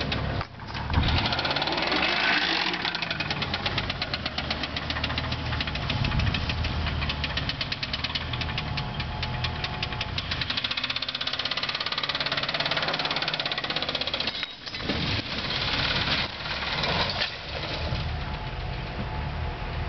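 Ford Crown Victoria's V8 engine running hard under load as the car climbs a steep dirt hill. The sound is a dense, rapid pulsing with two brief drops, about half a second in and again about fourteen and a half seconds in, and it settles slightly near the end.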